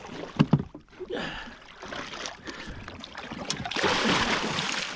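A hooked queenfish thrashing in the water beside a small boat: two sharp knocks about half a second in, then splashing that grows loud and rushing over the last second or so.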